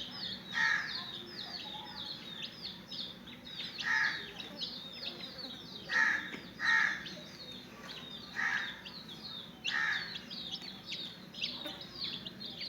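Young chicks peeping continuously in rapid, high, falling cheeps. A louder, lower bird call repeats about eight times over them.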